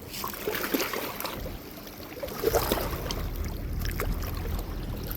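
Water splashing and sloshing at the bank's edge as a hooked freshwater drum is fought in to shore, with a low rumble on the microphone from about a second and a half in.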